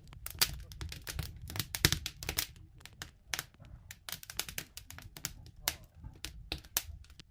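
Wood fire crackling: a dense, irregular run of sharp pops and snaps over a low steady rumble.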